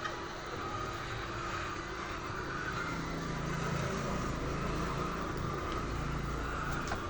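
A steady low mechanical hum of a running motor.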